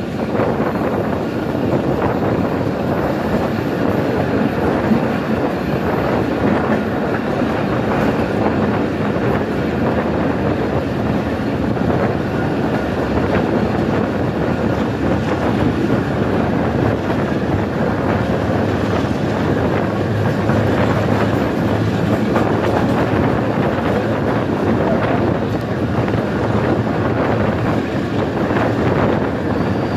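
Passenger coach of the Tezgam Express running fast along the track: a steady rumble of steel wheels on rails, with rapid clatter from the wheels and rail joints.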